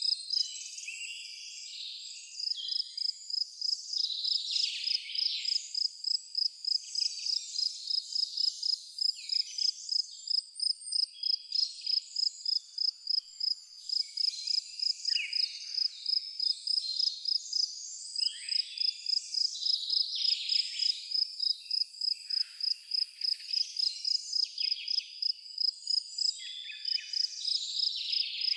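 A cricket chirping in a steady, even rhythm, about three chirps a second, with many birds calling and singing over it.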